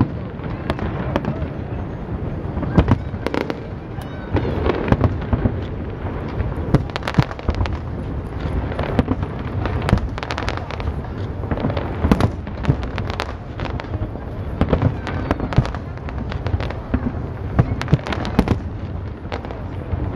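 Fireworks display: aerial shells bursting in a rapid, irregular series of sharp bangs and crackles, several a second at times, over a continuous low background of overlapping reports.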